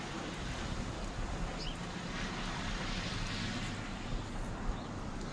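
Steady blizzard wind blowing and buffeting the microphone, a constant rushing noise with a low rumble.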